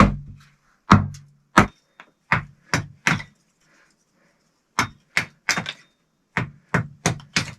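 Pieces of wooden pallet knocking and clunking against each other as they are handled, in a quick irregular run of sharp wooden knocks with a few heavier thuds near the start.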